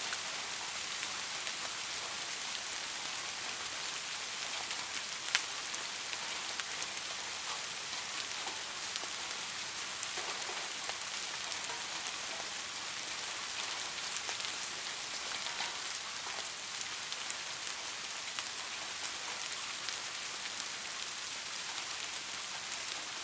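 Steady rain falling, an even hiss with scattered individual drops ticking, one louder drop about five seconds in.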